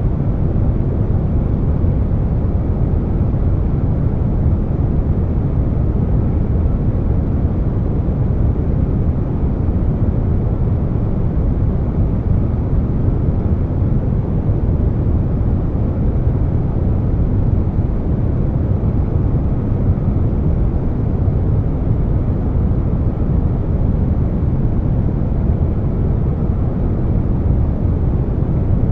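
Steady air-conditioner noise layered with brown noise: an even, deep rush weighted to the low end, with no changes in level or pitch.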